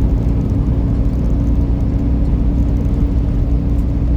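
Steady drone inside a semi-truck's cab at highway speed: engine and road noise with a constant low hum.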